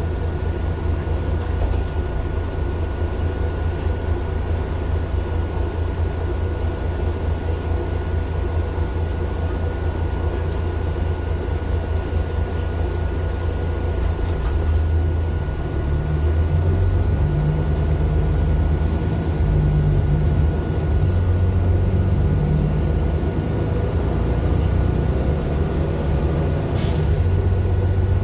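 Mercedes-Benz Citaro LE city bus's OM 457 hLA diesel engine running, growing louder about halfway through.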